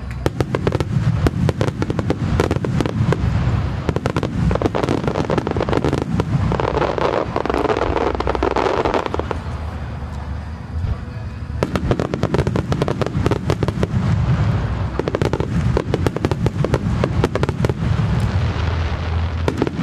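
Starmine fireworks barrage: many shells bursting in rapid succession with crackling over a constant low booming rumble. The firing thins out briefly about ten seconds in, then resumes just as densely.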